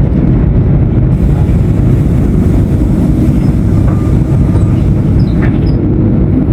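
Diesel engine of a Mercedes-Benz 1519 BlueTec 5 bus running with a steady low rumble.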